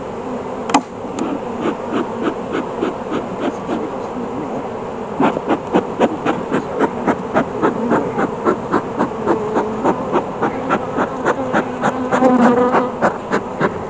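A swarm of honeybees buzzing steadily around an open hive. From about five seconds in, a bee smoker's bellows is pumped rapidly, puffing about three times a second to drive the disturbed bees down.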